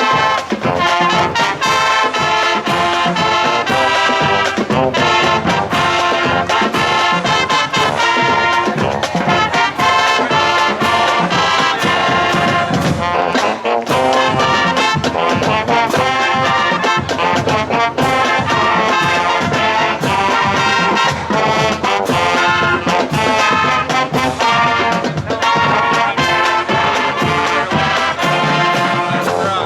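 Lively brass music with trumpets and trombones over a steady beat.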